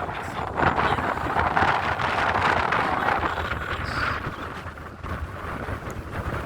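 Wind buffeting the microphone: a loud, rushing noise with a low rumble that eases a little about halfway through.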